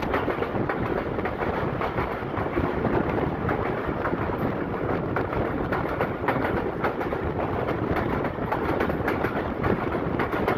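Passenger train coach running at speed on a branch line, heard from the open door: a steady rumble of wheels on rail with a run of uneven clicks and knocks from the track.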